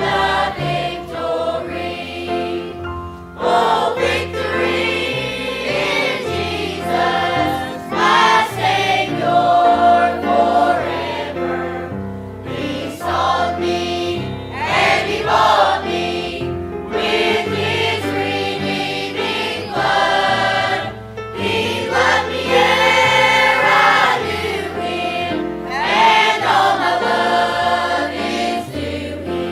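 A congregation or choir singing a hymn with instrumental accompaniment.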